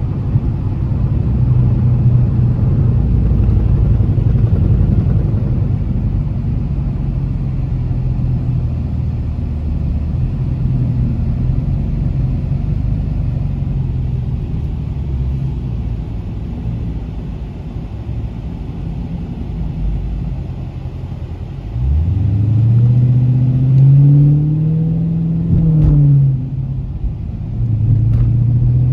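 Dodge Challenger Scat Pack's 392 HEMI V8 running at a steady drone while cruising. About three-quarters of the way through it accelerates, its note rising for a few seconds and then dropping away, before settling back into a steady drone.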